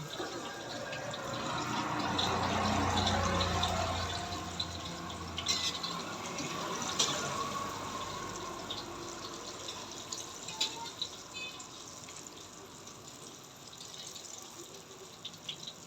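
Banana turon frying in hot oil: a steady sizzle that swells for a couple of seconds and then eases off, with a few sharp pops.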